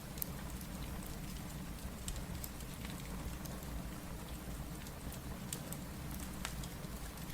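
Steady rain falling, mixed with the scattered sharp pops and crackles of a wood fire in a fireplace.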